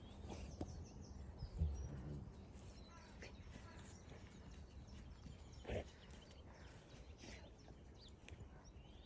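Faint outdoor ambience with scattered short bird chirps. A low thump comes about a second and a half in, and a short sharp call near the middle.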